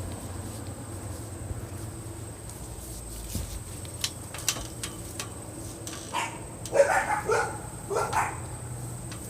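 A few short animal calls in quick succession, about six to eight seconds in, over a steady high-pitched tone and a few faint clicks.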